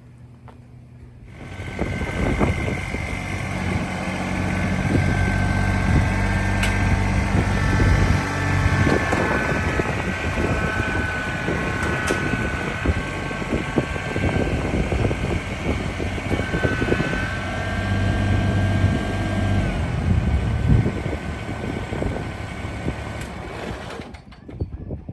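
A vehicle's engine running as it drives along, with a steady higher whine over the engine. It cuts off abruptly near the end.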